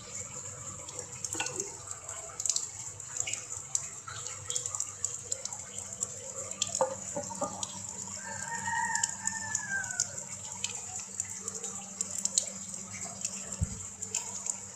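Water running and dripping, with many small clicks and splashes. A rooster crows once in the background about eight seconds in.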